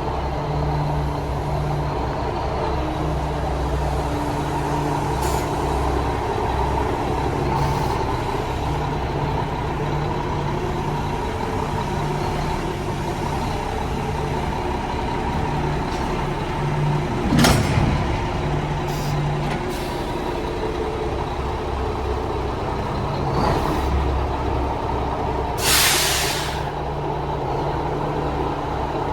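1996 Mack CH613 semi truck's diesel engine idling steadily. A single sharp clunk comes a little past halfway, and near the end there is a hiss of released air lasting about a second.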